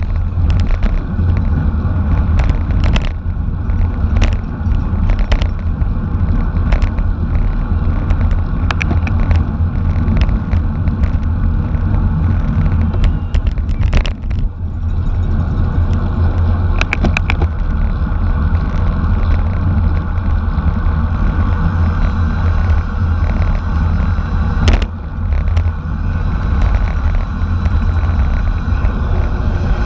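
Wind rushing over the microphone of a camera riding along in a bicycle race, a steady low rumble mixed with tyre and road noise, with sharp clicks now and then.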